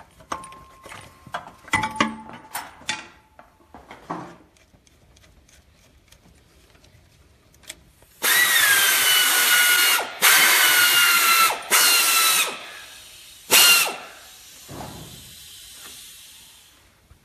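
Light clinks of hand tools on metal, then a pneumatic wrench runs in four bursts, the last one short, its whine dropping in pitch as it takes load while undoing the engine fan's fasteners.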